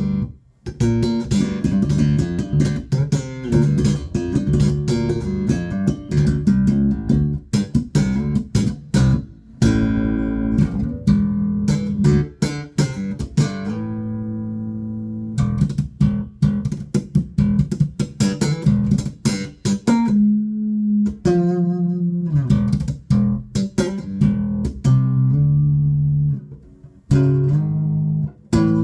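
Spector Euro 4 Classic four-string bass with active EMG pickups, played solo through a Markbass Little Mark 58R combo with the amp set flat. It plays a busy line of short, sharp notes with a few longer held notes.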